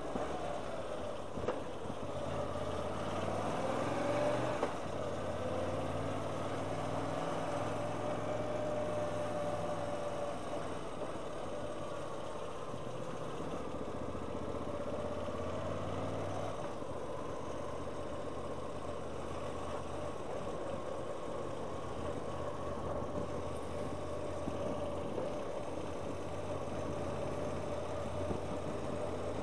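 Motorcycle engine running as the bike rides at low speed, heard from the rider's position. The engine note rises a few seconds in as it accelerates, then stays fairly steady with small changes in throttle.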